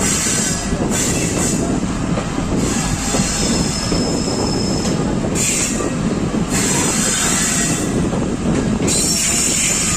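Train running on the rails: a loud, continuous rumble with stretches of high hiss, and a thin high wheel squeal for a couple of seconds around the middle.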